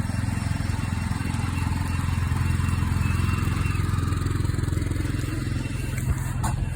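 An engine running steadily with a low rumble, with a few short clicks near the end.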